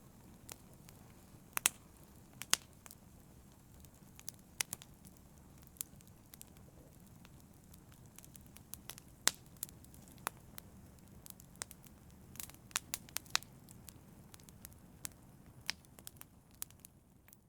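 Wood fire in a fireplace crackling, with irregular sharp pops and snaps over a low steady rumble; it fades out at the very end.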